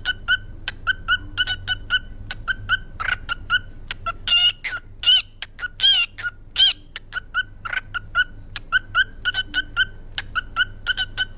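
Pet parrot calling: a fast run of short, high, pitched chirps at about three or four a second, with a few longer warbling calls about midway.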